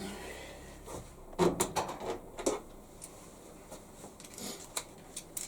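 Scattered clicks and light knocks of a screwdriver and loose screws against the plastic top panel of a washing machine being taken apart. A quick cluster of sharp clicks comes about a second in, then fainter ticks.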